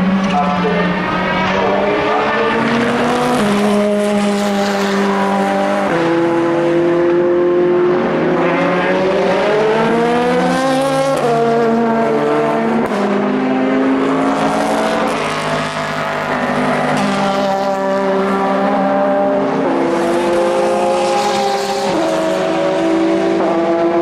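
Endurance race cars running on circuit, more than one engine heard at once, their pitch climbing under acceleration and dropping sharply at each gear change.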